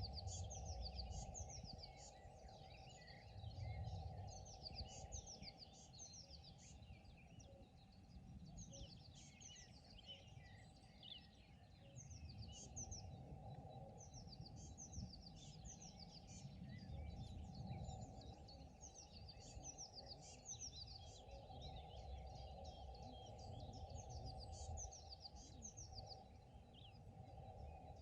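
Several songbirds chirping and singing throughout in many short overlapping calls, faint, over a low steady rumble of outdoor background noise.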